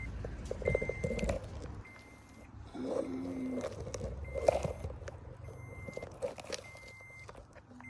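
Car engine running, recorded from underneath the car, with a low rumble and a few brief swells; the owner is checking a noise that some suspect is rod knock. A high electronic beep repeats about once a second over it.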